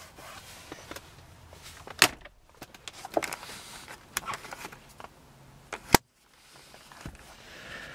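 Glove box latch and lid being worked: a sharp click about two seconds in and another about six seconds in, with a few lighter ticks between.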